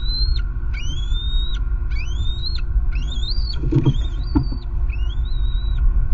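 A bird repeating a clear, rising whistle about once a second, each note cutting off sharply, over a steady low rumble of wind on the microphone. A brief rustle and knock from the nest sticks come about four seconds in.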